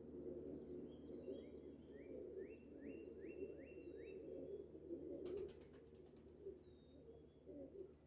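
Faint birdsong: a songbird gives a run of about eight quick rising whistled notes. About five seconds in comes a short burst of rapid taps, a woodpecker drumming on wood.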